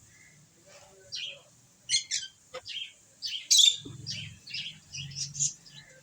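Pet lovebirds chirping: a quick run of short, sharp chirps that starts about a second in and is loudest around the middle.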